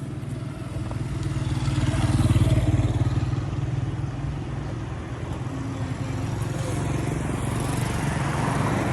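An engine running with a low, pulsing note, swelling to its loudest about two to three seconds in, then easing back to a steadier level.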